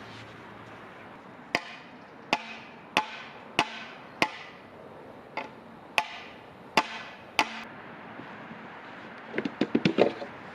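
Bamboo being chopped with a blade: about nine sharp, hollow knocks, roughly one every 0.7 s with a pause midway, each ringing briefly, then a quick flurry of lighter knocks near the end.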